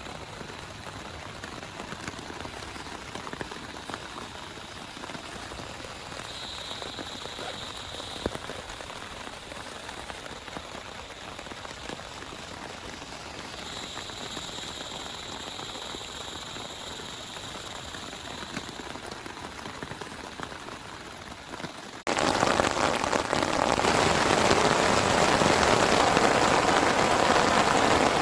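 Steady rain falling, with scattered drop ticks. About three-quarters of the way through it cuts suddenly to much louder, heavier rain.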